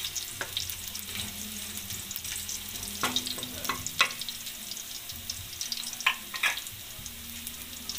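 Minced garlic sizzling in hot oil in a wok, with a steady hiss. A wooden spoon stirs it, scraping and knocking against the wok a few times; the sharpest knocks come about three, four and six seconds in.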